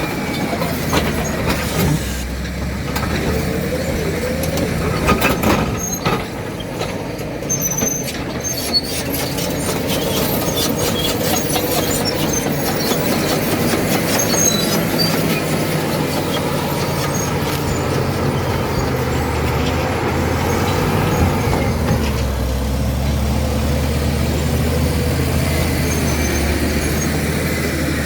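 Caterpillar D7 bulldozer's diesel engine running steadily under work, with metallic clanks and squeals from the machine in the first several seconds.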